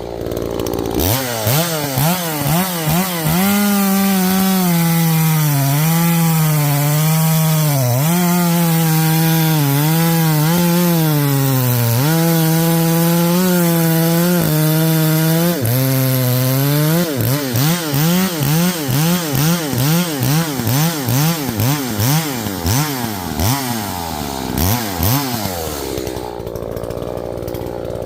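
Echo CS-590 Timberwolf two-stroke chainsaw running at full throttle while cutting wood, its pitch sagging briefly each time the chain loads up in the cut. After about 17 seconds it is revved in a long run of quick throttle blips, roughly two a second, and then drops back down near the end.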